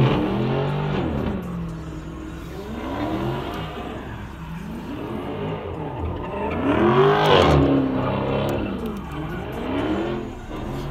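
Dodge Daytona SRT's V8 revving hard in repeated surges as it spins its rear tyres in burnout donuts, the pitch rising and falling about every two seconds. The loudest surge comes about seven seconds in.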